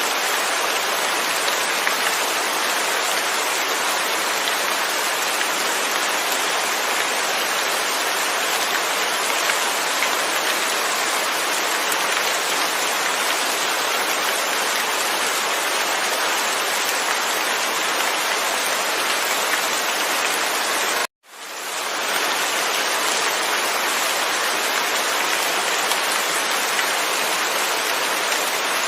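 Steady, heavy rainfall without thunder, an even hiss of drops. About 21 seconds in it cuts out abruptly for a moment and fades back in.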